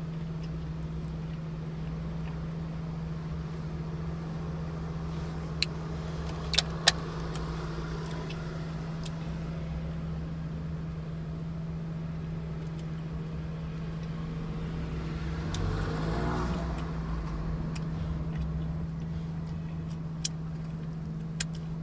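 Car engine idling steadily, a constant low hum heard from inside the cabin. A few sharp clicks come about six to seven seconds in, and another vehicle passes outside, swelling and fading about sixteen seconds in.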